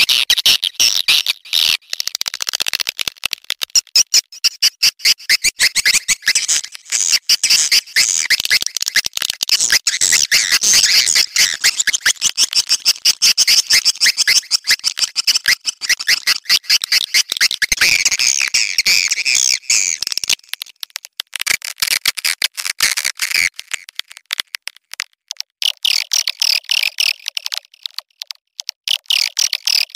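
Edible-nest swiftlets' mating call: a dense, rapid chattering and twittering of clicks. It is a lure call, the kind played to draw swiftlets into a nesting house. The chattering thins out briefly about two-thirds of the way through, then goes on.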